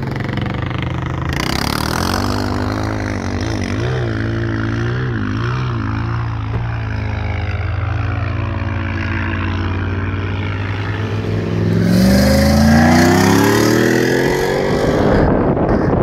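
Four-wheel-drive engine revving in soft dune sand, its pitch wavering up and down, then climbing steadily and louder over the last few seconds as the vehicle accelerates.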